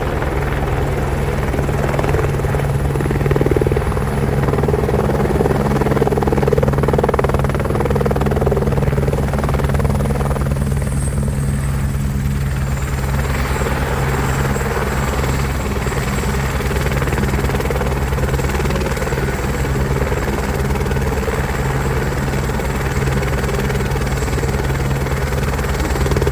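Helicopter running steadily, with a rapid low rhythmic pulse from the rotor and a faint high whine that steps down slightly in pitch about halfway through.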